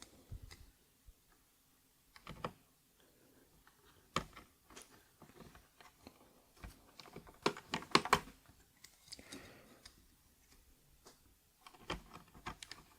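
Irregular plastic clicks and small knocks from mechanical keyboard switches being pressed into and pulled from a hot-swap keyboard's sockets, with a denser cluster of clicks a little past the middle.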